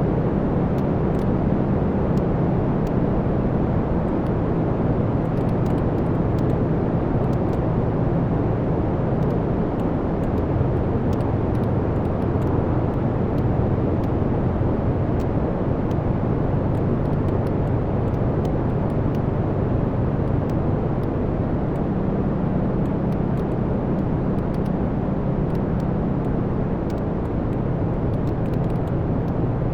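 Wood fire burning in a fireplace: a steady low rumble of the flames with faint scattered crackles and pops of the burning logs.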